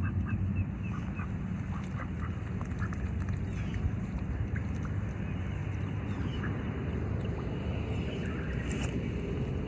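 Ducks quacking in short scattered calls, with a few faint high bird chirps over a steady low rumble.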